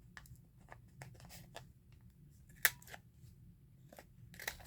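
The corners of a paper journal card being cut round: a series of short, sharp snips and clicks of paper being cut, the loudest about two and a half seconds in.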